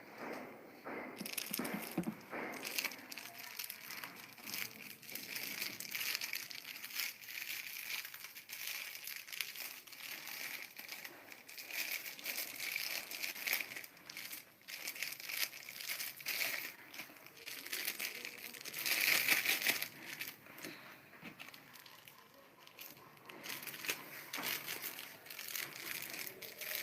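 Close-up chewing and crunching of food: a dense, irregular run of crackling crunches and small clicks, loudest about nineteen seconds in.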